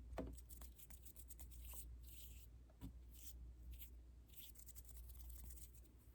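Faint, close-miked ASMR trigger sounds: a run of small crisp clicks and taps with a few short scratchy brushing rustles, over a low steady hum.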